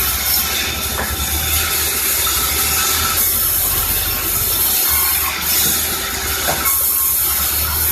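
Sawmill saw and its drive running: a steady low motor hum under a loud high hiss that swells in stretches, as from a saw cutting wood.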